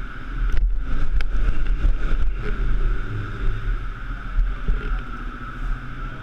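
A pit bike's small engine running, its low rumble rising and falling unevenly, with a steady high whine alongside.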